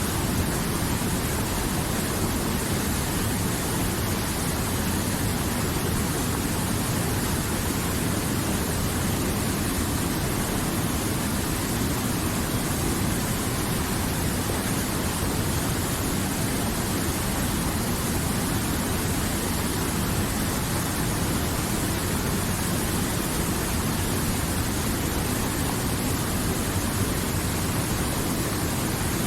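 River water flowing, a steady, unchanging sound of moving water.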